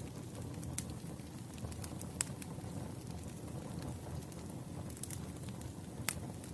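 Wood campfire burning: a steady low rumble of flames with sharp crackles and pops scattered through it, the loudest pops about two seconds in and near the end.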